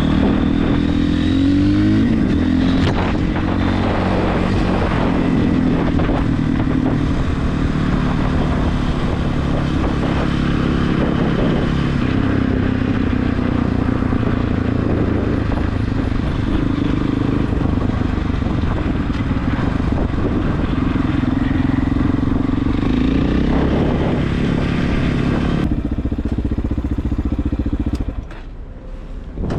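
Regulmoto TE enduro motorcycle engine running while riding, its pitch stepping up and down with throttle and gear changes. The sound drops away sharply near the end.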